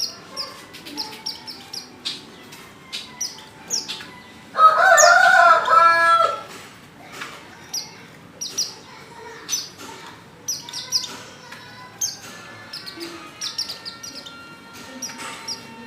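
Female white-eye (pleci) giving quick, high, falling chirps again and again: the calls of a female in breeding condition calling for a male. About four and a half seconds in, a rooster crows loudly for under two seconds.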